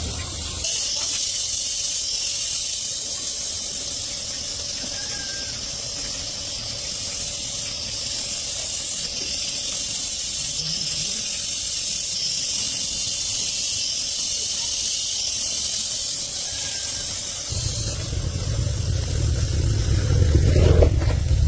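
A steady, high hiss like air or spray from a nozzle, with small changes in strength along the way. About four seconds before the end the hiss stops and a low rumble takes over.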